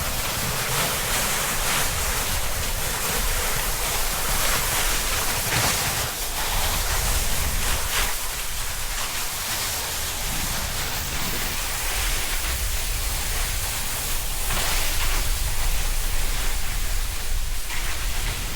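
Snowboard sliding and carving over snow with wind rushing across the action camera's microphone. The sound is a steady rushing hiss with a low rumble of wind buffeting, swelling briefly now and then as the board scrapes harder.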